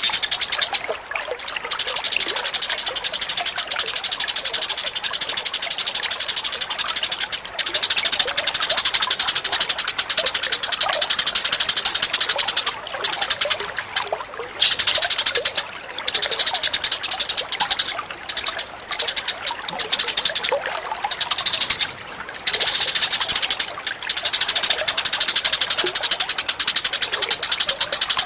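Recorded songbird calls: long bouts of very fast, high-pitched chattering lasting several seconds each, broken by short pauses, over a softer background of running water.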